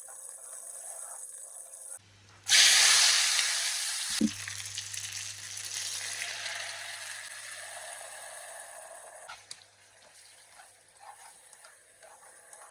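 Food dropped into hot oil in a frying pan: a sudden loud sizzle about two and a half seconds in that slowly dies down to a steady frying hiss.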